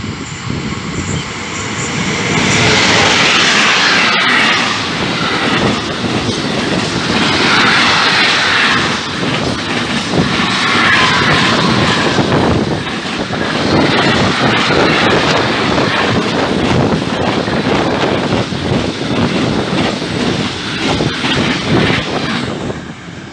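Intermodal freight train of pocket wagons carrying semi-trailers running through a station behind an electric locomotive. The noise builds over the first couple of seconds as it arrives, then holds as a steady rumble with a rapid clatter of wagon wheels over the rails.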